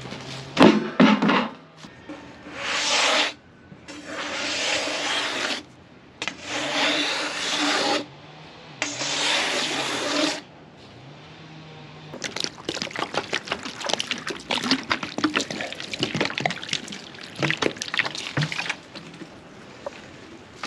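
Sawmill engine idling, with four hissing, whining bursts of the hydraulics working, the engine note dipping under load during them. Then a run of knocks and clatters.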